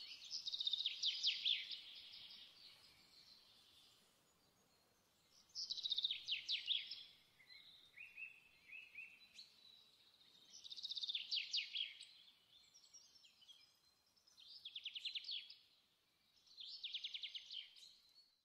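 Songbird singing: five loud, rapid trilled phrases of a second or two each, a few seconds apart, with softer chirps between them.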